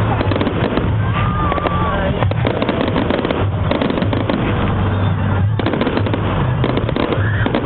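Fireworks display going off: a dense, continuous run of bangs and crackling, with a couple of brief whistles about a second in and near the end.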